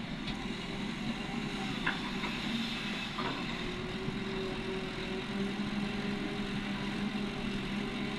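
Heavy diesel engine of quarry earthmoving machinery running steadily, with a couple of light knocks about two and three seconds in.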